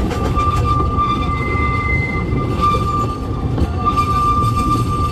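Narrow gauge steam train running, heard from an open carriage: a steady rumble of wheels on the rails, with a steady high-pitched squeal over it as the train takes a curve, and a brief higher squeal about a second in.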